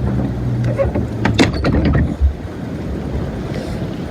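Wind buffeting the microphone as a loud, gusty rumble, with a few sharp knocks about a second and a half in.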